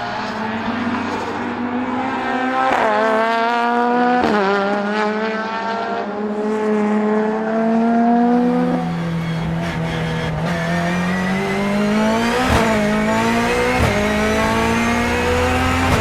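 Turbocharged BMW S14B20 four-cylinder engine in a BMW E36 race car accelerating hard, its pitch climbing through the gears with quick sequential upshifts that drop the pitch sharply several times.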